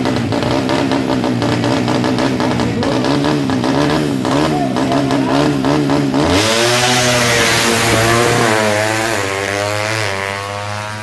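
A 200cc underbone drag bike's engine is held at high, wavering revs at the start line. About six seconds in it launches and accelerates hard, its pitch climbing and dropping back at each of several gear changes.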